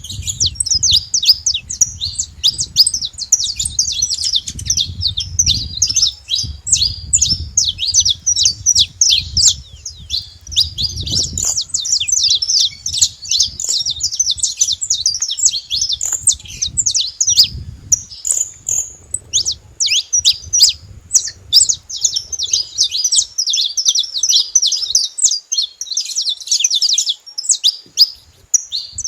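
Saffron finch singing a long, fast run of sharp chirping notes, with a short break about two-thirds of the way through.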